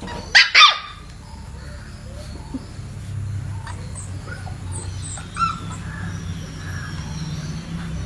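A dog barking twice in quick succession about half a second in, followed by faint background noise.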